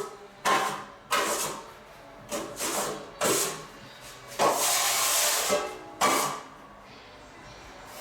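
Tools and materials being handled during repair work: a run of separate knocks and clatters, with a longer scraping rush about four and a half seconds in.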